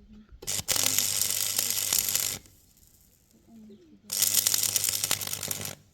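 A machine running in two bursts of about two seconds each: a loud rushing noise over a steady low hum, switching on and off abruptly.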